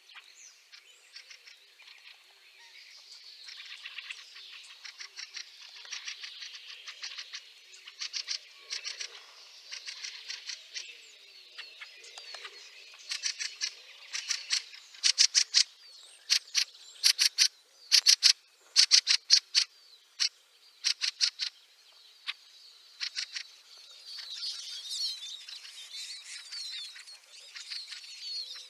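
Fieldfares calling: a harsh chattering, with runs of loud, rapid clacking notes in the middle stretch and more chatter again near the end.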